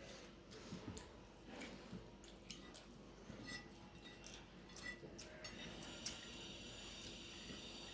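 Quiet eating sounds: soft clicks and smacks of chewing, with a few faint clinks of a plate or glass. About five and a half seconds in, a faint steady hiss comes in.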